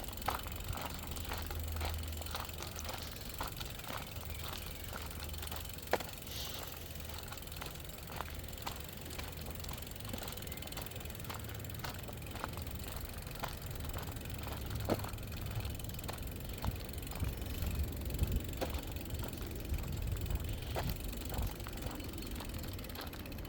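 Footsteps on an outdoor path, a string of irregular light clicks, over a low rumble of wind on the microphone.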